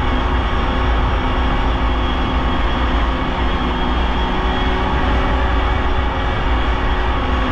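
Polaris Indy snowmobile engine running at a steady pitch, with no revving up or down.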